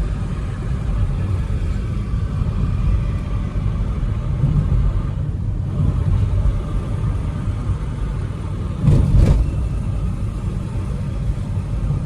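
Steady low rumble of a Volkswagen Vento diesel car's engine and tyres on a wet road, heard from inside the moving car with the windows down. A brief louder burst comes about nine seconds in.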